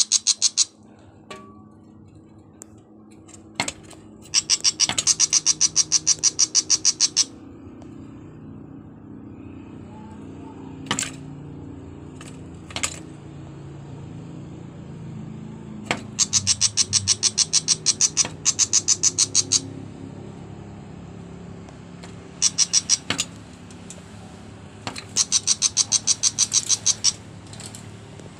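A bird giving harsh, rapid rattling chatter in repeated bursts of a few seconds, about seven sharp notes a second, typical of an agitated or scolding bird. There are five bursts, with a low murmur underneath.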